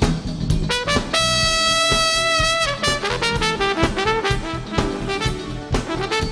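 Funk band's horn section playing over drums: a long held note starting about a second in, then short rhythmic stabs.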